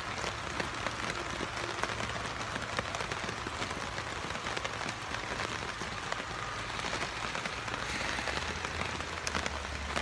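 Steady rain pattering on a Jacks R Better hammock tarp, heard from inside the hammock beneath it, with many small individual drop ticks over a constant hiss.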